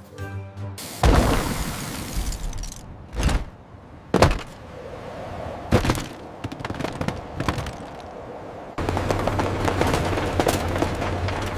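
A run of sudden loud bangs and crashes, each with a decaying rumble. About nine seconds in, a steady rushing noise with a low hum starts abruptly.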